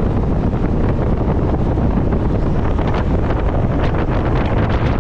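Strong wind buffeting the microphone, with the steady low rush of a boat running over the water.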